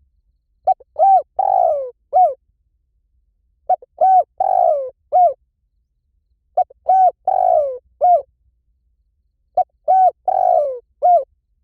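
Spotted dove cooing, a lure-call recording: the same phrase of short arched coos and one longer, rougher falling note, repeated four times about every three seconds.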